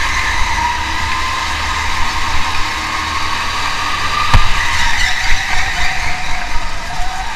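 A car engine running hard with road and tyre noise, its pitch drifting down near the end, and one sharp knock about four seconds in.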